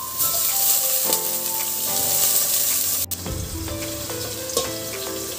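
Sliced onion and chopped garlic sizzling in hot oil in a stainless steel pot, stirred with a metal spoon, over background music of held notes.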